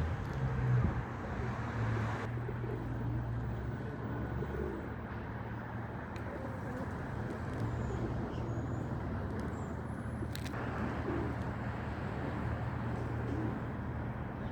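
Steady rumble of city traffic, with a few pigeon coos and faint bird chirps over it.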